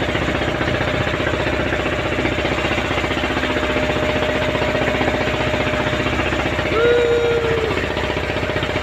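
Boat engine running steadily with a fast, even knocking beat. A short held tone sounds briefly about seven seconds in.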